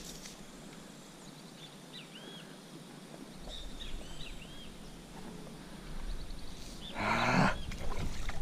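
Birds calling: a short rising-and-falling chirp repeated every second or two. About seven seconds in there is a brief, louder rough rasping sound.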